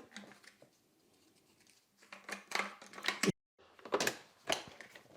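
Hard plastic parts of a wet-dry floor vacuum clicking and knocking as its water tanks are handled, in two short clusters of sharp clicks after a quiet start.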